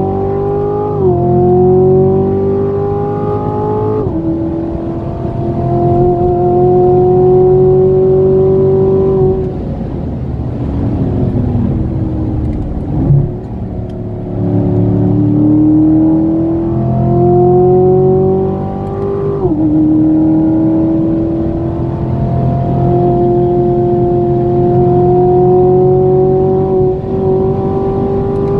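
Chevrolet Corvette C7's 6.2-litre V8 heard from inside the cabin, pulling hard through the gears of its 8-speed automatic: the engine note climbs steadily, then drops sharply at each upshift, about a second in, at four seconds, near twenty seconds and at the very end. In the middle it eases off, quieter with more tyre and road noise, and a short sharp rise in level comes about thirteen seconds in before it pulls again.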